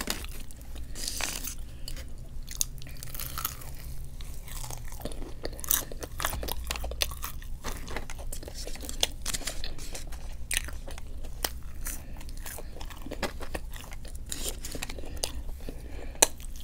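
A person chewing and biting food close to the microphone: a steady run of wet mouth clicks and crunches.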